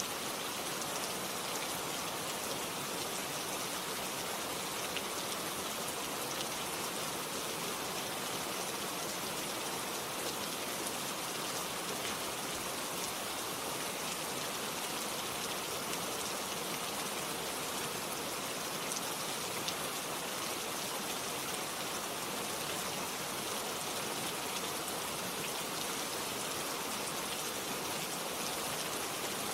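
Steady rain falling, a constant hiss with fine pattering drops and no change in intensity.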